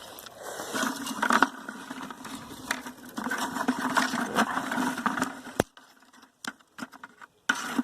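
Crunching and rustling of dry twigs, sticks and leaves, with scattered sharp cracks. It drops off after a sharp click about two-thirds of the way in, leaving only a few faint ticks.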